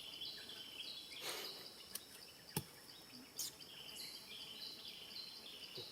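Rhythmic high-pitched chirping in the background, repeating two or three times a second in two alternating pitches, with a sharp click about halfway through and a couple of short rustles.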